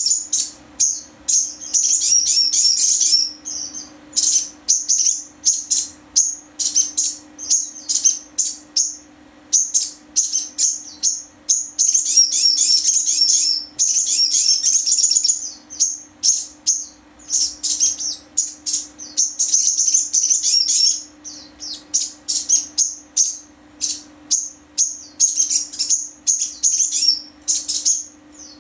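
A sogon songbird singing a rapid, high-pitched stream of chirps and trills in repeated bursts of one to three seconds with short pauses between, over a faint steady low hum.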